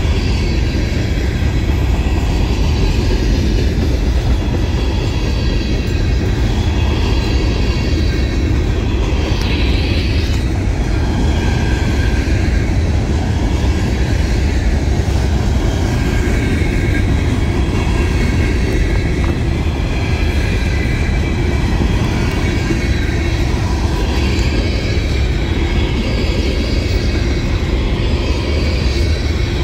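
Loaded trash cars of a Norfolk Southern freight train rolling steadily past, a loud continuous rumble of wheels on the rails with steady high-pitched squealing over it.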